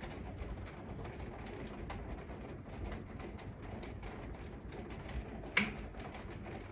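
Steady rain hiss with faint pattering ticks, and one sharp click about five and a half seconds in.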